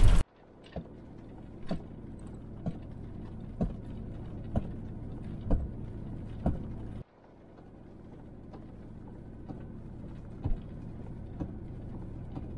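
Van running, heard from inside the cab: a steady low engine and road rumble with a short knock about once a second, typical of windshield wipers sweeping snow. The sound cuts out briefly about seven seconds in, then resumes with the same beat.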